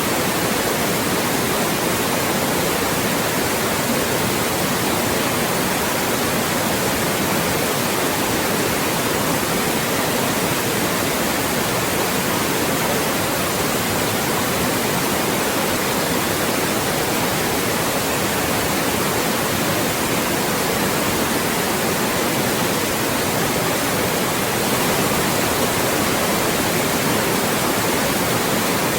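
Loud, steady white noise: an even, unchanging hiss across the whole range, used as a speech blocker to mask voices.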